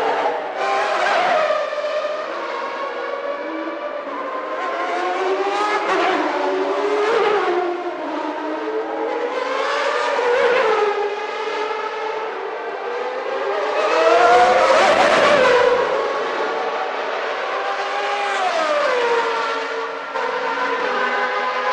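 Formula One race car engines at high revs, their pitch climbing and falling in a series of swells about every four seconds. The loudest swell, with added low rumble, comes about two-thirds of the way in.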